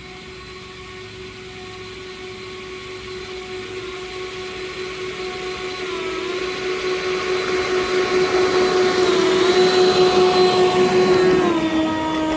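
Two leaf blowers running hard, driving a railroad flat car along the track: a steady whine with a rushing air hiss. It grows louder and louder, then its pitch and level drop near the end.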